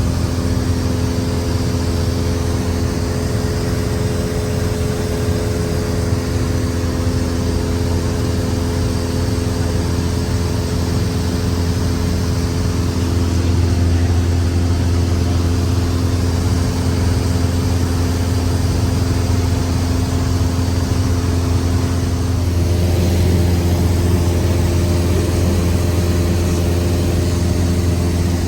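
Cessna 172's piston engine and propeller running with a steady drone; its note shifts slightly about 22 seconds in.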